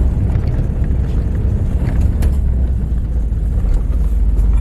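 Inside a truck's cabin driving a rough dirt road: a steady low rumble of the moving truck, with a few sharp knocks and rattles from bumps about two seconds in.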